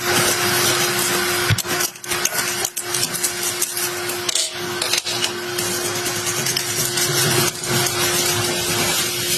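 A small motorized tool running steadily: a dense hiss with a constant hum underneath, briefly dipping a few times.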